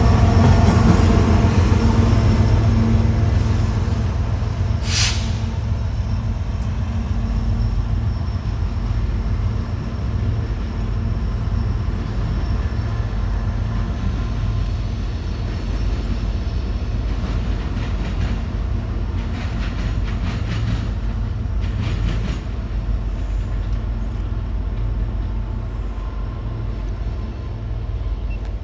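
Freight train rolling past with a steady low rumble of cars on the rails that slowly eases off. There is a sharp click about five seconds in, and a few bursts of wheel clacking come about two-thirds of the way through.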